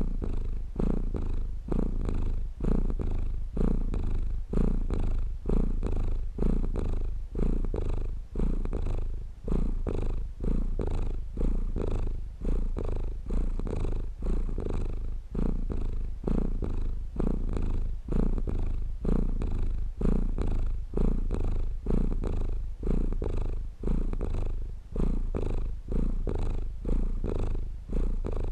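Domestic cat purring close up, a continuous low rumble that swells and eases with each breath in a steady, even rhythm.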